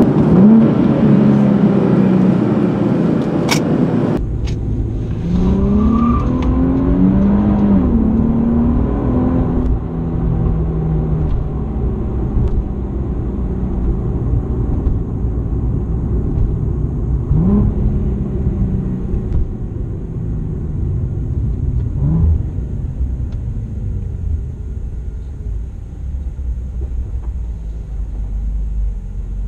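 Nissan Z car's V6 engine heard from inside the cabin, revving up several times in quick succession with gear changes, then cruising with a steady low rumble of engine and road noise. Two brief rev rises come later on.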